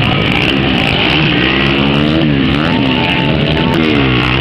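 Motocross bike engines revving, their pitch dropping and climbing again several times as the throttle is closed and reopened.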